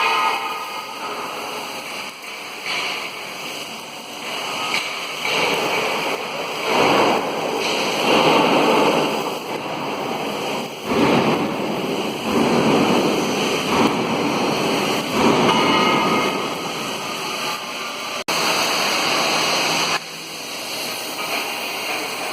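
Oxy-acetylene torch flame hissing, swelling and easing over several seconds, with a sudden break about eighteen seconds in.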